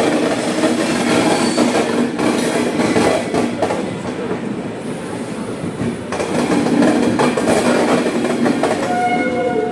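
Passenger train pulling out of the station, heard from an open coach doorway: steel wheels clattering irregularly over rail joints over a steady running rumble.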